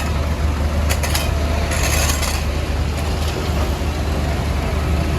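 A CAT 462F backhoe loader's diesel engine running steadily under working load. A few brief scrapes come in the first two seconds.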